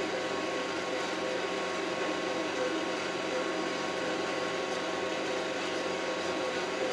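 Kioti RX7320 tractor's diesel engine running steadily at a constant pitch.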